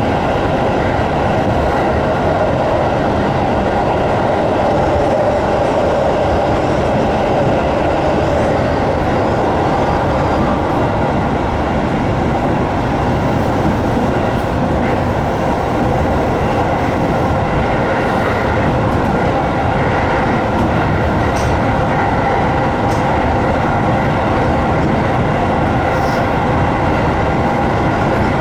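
A JR 205-series electric train running at steady speed, heard from the front cab: an even rumble of wheels on rail with a steady whine of several tones. A few faint ticks come in about halfway through.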